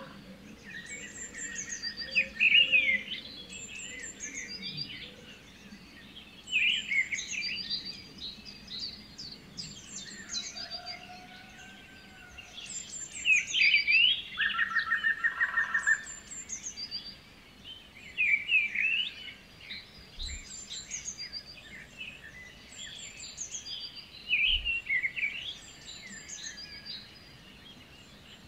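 Birdsong: several birds chirping and singing in short high phrases that come every few seconds. A rapid trill sounds about a second in and again about halfway through.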